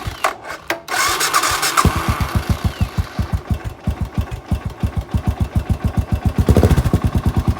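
Suzuki LS650 Savage's big single-cylinder engine being electric-started without choke: the starter cranks for a couple of seconds, the engine catches about two seconds in and settles into an idle of distinct, evenly spaced pulses, getting louder for a moment near the end.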